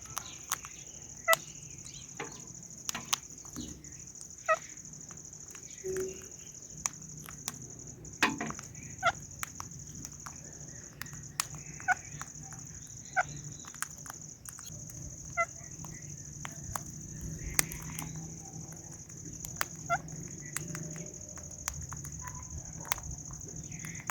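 Indian ringneck and Alexandrine parrots eating guava: irregular sharp bites and beak clicks, about one or two a second, some with short chirping notes, over a steady high-pitched hiss.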